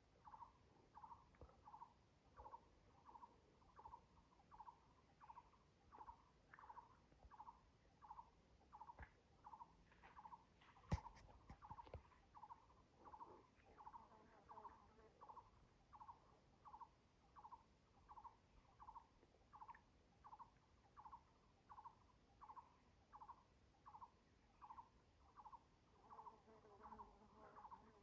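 Faint animal call: one short mid-pitched note repeated steadily, a little more than once a second. There is a single sharp click about eleven seconds in.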